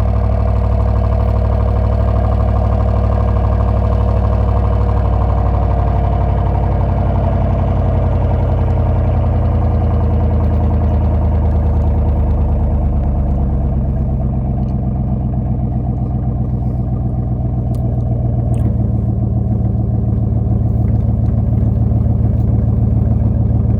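Chevy Silverado 1500 RST's 5.3-litre V8 with its mufflers deleted, idling steadily on a cold start, its exhaust note loud and unmuffled.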